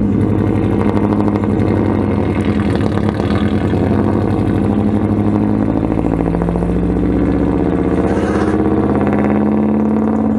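Engine of a vehicle towing a car on a strap, running steadily at low road speed, its pitch rising and falling slightly.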